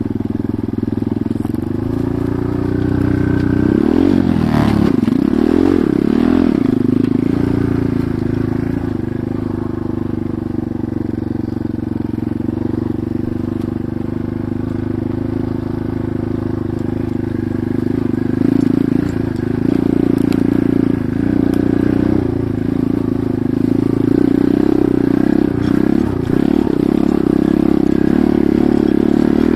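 Enduro motorcycle engine running while riding, its revs rising and falling with the throttle, most sharply about four to seven seconds in and again through the second half.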